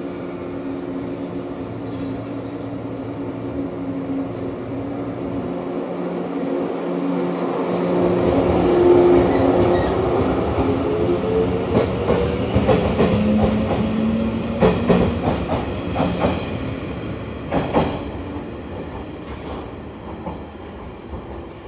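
Shinano Railway 115 series electric train pulling out of the station and passing close by: traction motors hum, rising in pitch as it accelerates. The wheels then clack over rail joints, and the sound fades as the train moves away.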